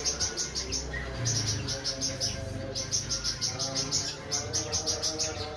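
Cucak cungkok songbird singing hard in rapid high trills of about eight notes a second, in runs of a second or so broken by short pauses, over a low steady hum.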